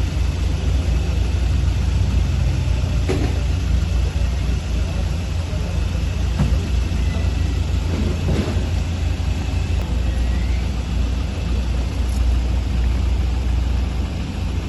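Steady low engine rumble, with a few faint knocks.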